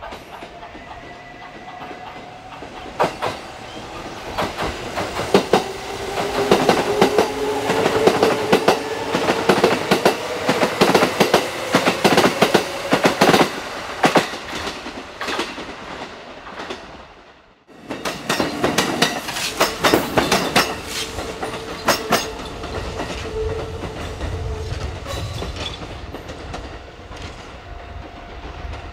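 Kintetsu electric train passing, its wheels clattering rapidly over rail joints and points, with a steady whine underneath. The sound cuts out for a moment a little past the middle, then the clattering starts again and slowly eases off.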